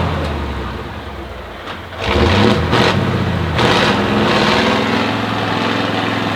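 Off-road trial truck's engine revving under load. It eases off during the first couple of seconds, surges again about two seconds in with a few quick throttle blips, then holds a steady high rev.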